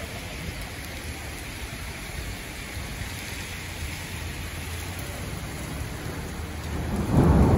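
Steady rain falling on a wet street. Near the end a loud, low rumble sets in and grows.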